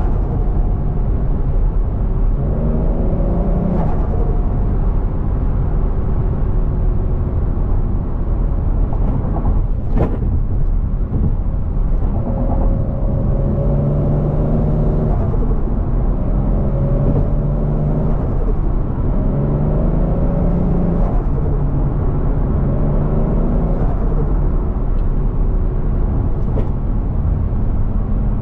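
Turbocharged Toyota 1JZ-GTE VVTi inline-six in a Scion FR-S, running under way. Its note rises in pitch again and again in runs of about two seconds, as under repeated acceleration, with a brief sharp sound about ten seconds in and another near the end.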